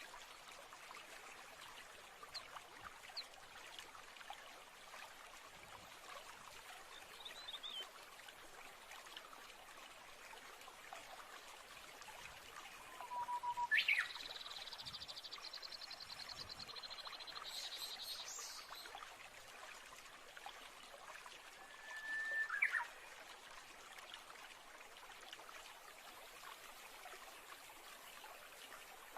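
Forest ambience: a steady trickle of running water, with a few scattered bird chirps, a louder high trilling birdsong about halfway through, and a short call a little later.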